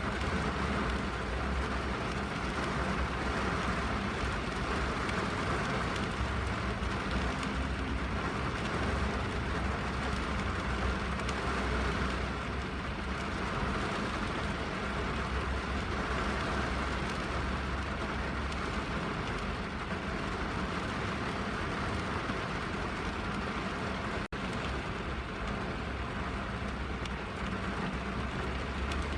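Steady rain falling on a car's roof and glass, heard from inside the cabin as an even patter over a low rumble, with a split-second gap near the end.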